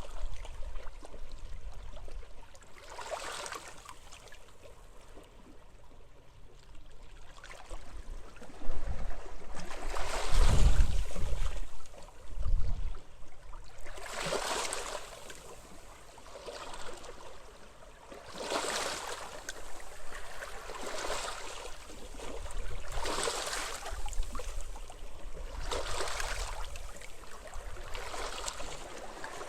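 Small waves washing in on a sandy-or-stony shore, each surge of hiss rising and falling every two to four seconds. Gusts of wind rumble across the microphone, strongest near the start and about ten seconds in.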